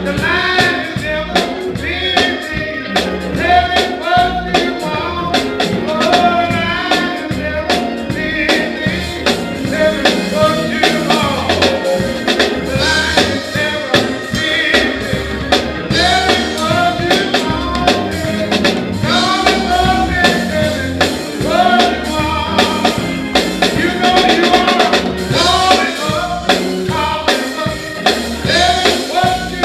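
Gospel song: singing over a band with a steady drum beat.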